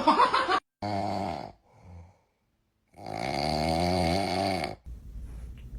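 A sleeping pet snoring: a loud noisy burst at the start, then a short snore about a second in, a faint one near two seconds and a longer, wavering snore from about three seconds in, with sudden cuts to silence between them.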